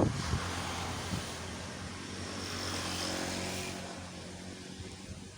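A motor engine drones with a hiss, growing louder to a peak about three seconds in and then fading, as if passing by.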